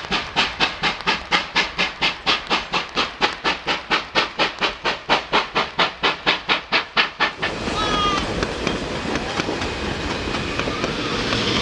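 Steam locomotive exhaust chuffing hard and evenly at about four beats a second. About seven and a half seconds in it gives way abruptly to a steady rushing train noise with a few faint clicks and a brief high squeal.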